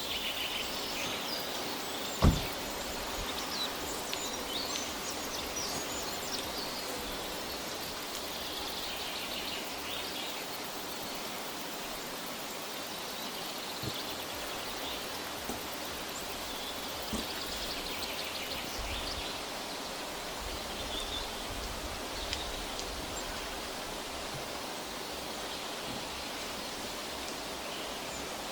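Forest ambience: a steady hiss with scattered small bird chirps. A sharp knock about two seconds in, with a few fainter clicks later.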